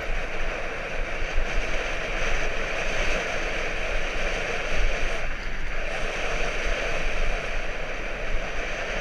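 Steady rushing wind noise on the microphone while riding, over a low rumble, with a brief lull about five and a half seconds in.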